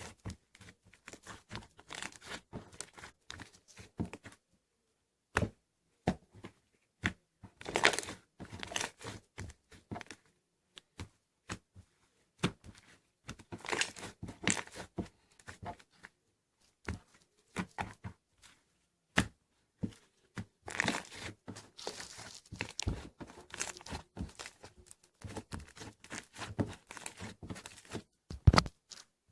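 Slime being squeezed and stretched by hand, giving irregular crackling, popping clicks and squishes, with a few short pauses.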